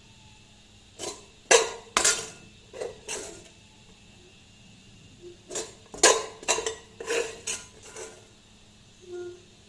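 Dishes and utensils clinking: about a dozen irregular sharp clinks and knocks, in two clusters, with a short faint pitched sound near the end.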